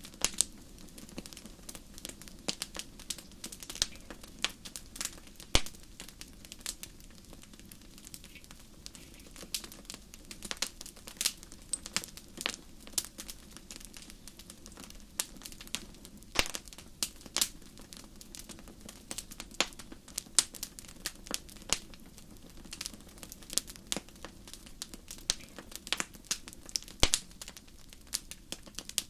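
Wood fire crackling in a fireplace: irregular sharp pops and snaps, several a second, some louder than others, over a steady low rumble of the burning.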